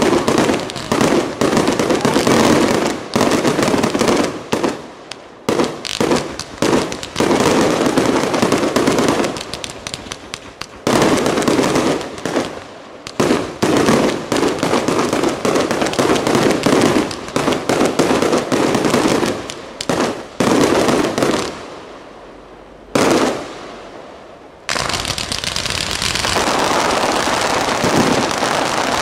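Aerial fireworks going off in rapid succession: a dense, loud run of bangs and crackles. It dies down briefly about three-quarters of the way through, then an unbroken steady crackle takes over near the end.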